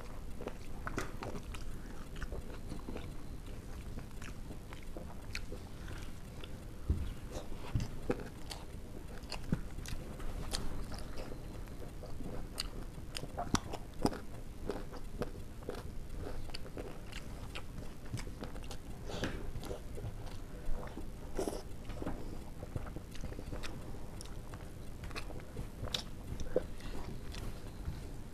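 Close-miked chewing and mouth sounds of two people eating rice and egg curry by hand, broken by many irregular small clicks and ticks.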